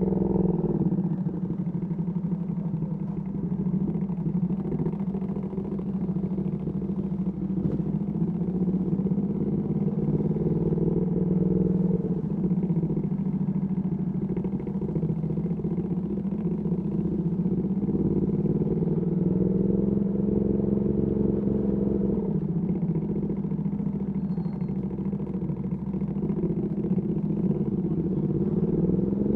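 Ducati Panigale V2S V-twin through a Termignoni exhaust, running at low, fairly steady revs with small rises and falls in pitch and a rev climbing near the end.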